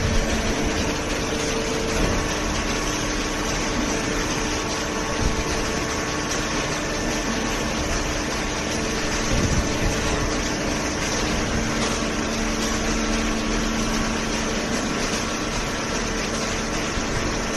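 Hydraulic cardboard baler's motor and pump running steadily, a continuous hum with a hiss and a few faint held tones.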